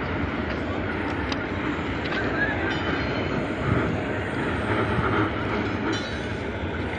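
Steady rumbling and rattling of a rail vehicle moving slowly along the track.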